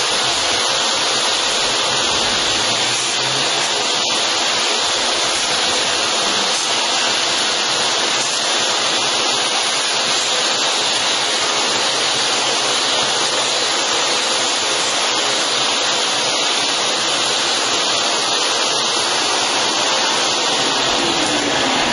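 Compressed air hissing steadily and loudly as it blows dust out.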